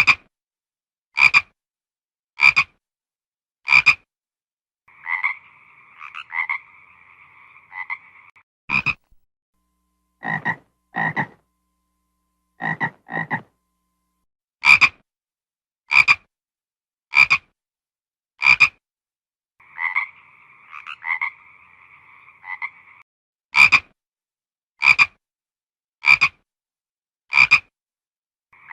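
Frog croaking: a run of short, sharp croaks about one to one and a half seconds apart, broken twice by a longer steady trill of about three seconds (around five seconds in and again around twenty seconds in), with a few deeper croaks in pairs around the middle.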